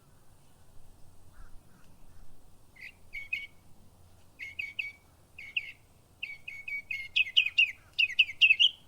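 Songbird chirping: short high notes in quick groups of two or three, starting about three seconds in and coming faster and louder toward the end.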